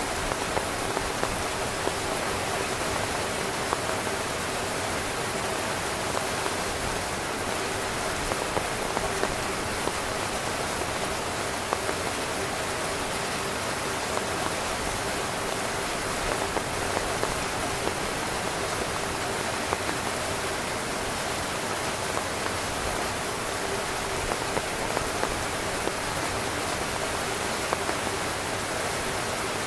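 Heavy rain pattering steadily on tent fabric, a dense hiss of drops with many small sharp drop hits standing out.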